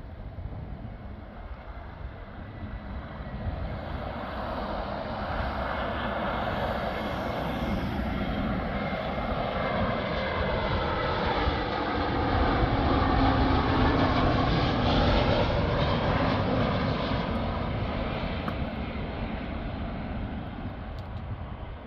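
Airbus A320neo jet airliner passing on its landing approach. The engine noise swells to its loudest a little past the middle, then fades away.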